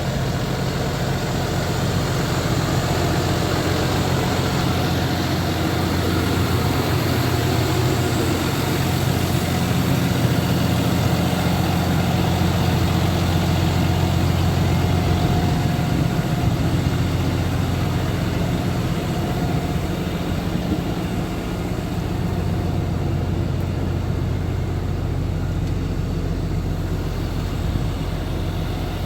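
Volvo FL 290 box truck's six-cylinder diesel engine idling steadily.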